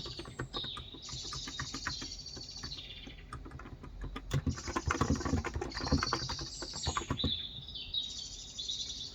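Typing on a Cox Endeavor electrostatic capacitive tenkeyless keyboard with 35 g switches, a rapid run of keystrokes that is heaviest in the middle. Small birds chirp and trill throughout.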